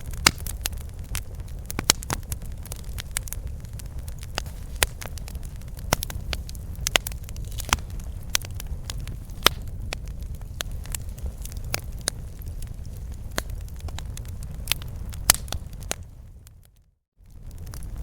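Campfire burning: wood crackling and popping in sharp, irregular snaps over a low steady rumble of the flames. Near the end the sound fades out to silence for about a second and comes back.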